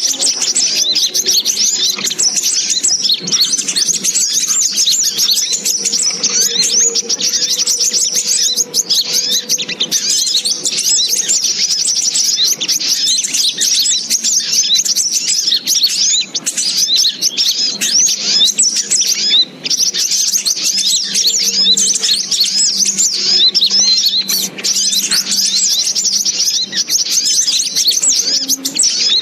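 Sogok ontong (little spiderhunter) lure call: dense, continuous high-pitched chirping, many rapid overlapping calls with no pause.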